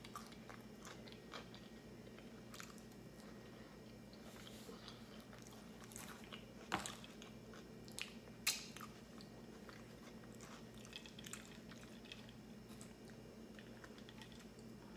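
Close-miked chewing of pizza, soft wet mouth clicks and crunches throughout, with two sharper mouth smacks about seven and eight and a half seconds in. A faint steady low hum runs underneath.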